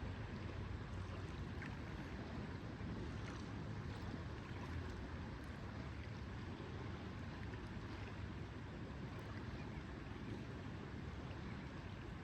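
Lakeside ambience: small waves lapping at the shore over a steady low wind rush.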